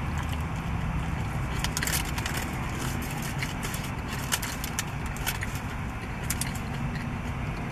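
Mouth-close chewing and the crinkle of a burrito's foil wrapper, heard as scattered clicks and crackles, over the steady low hum of a car's idling engine.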